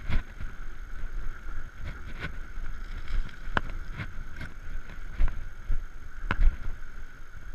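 Electric bicycle on the move: wind rumble on the microphone with a steady faint whine, and a few sharp clicks and knocks along the way.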